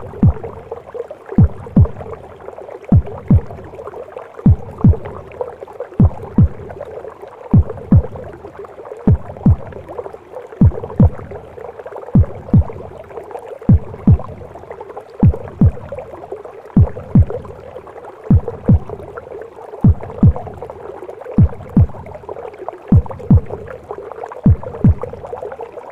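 Recorded womb sounds of a mother's heartbeat: a low double thump, lub-dub, about every one and a half seconds, over a steady whooshing hum.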